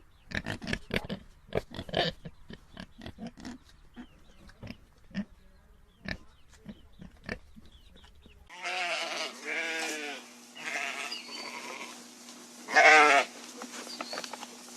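A run of short grunts from a farm animal. About eight and a half seconds in, the recording cuts to a farm animal bleating four or five times, the loudest bleat near the end.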